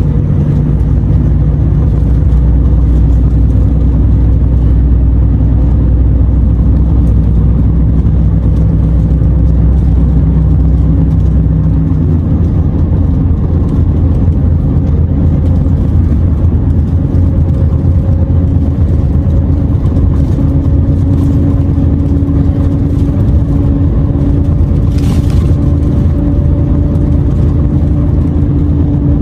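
Renault T480 truck's six-cylinder diesel engine running steadily under way. About twelve seconds in the engine note changes, its deepest rumble dropping away while a higher tone strengthens and slowly climbs. A brief hiss comes near the end.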